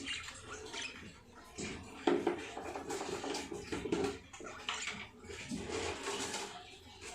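Clattering and scraping of small objects being handled, a run of irregular knocks and clicks.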